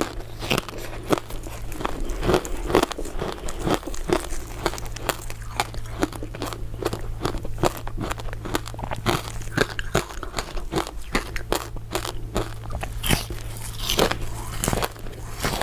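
Close-miked biting and crunching of crisp crystal ice dessert pieces, a dense run of sharp cracks and crackles as the pieces are bitten and chewed.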